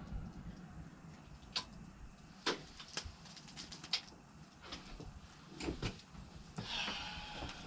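A few scattered light clicks and knocks, about a second or less apart at times, with a short hiss about seven seconds in.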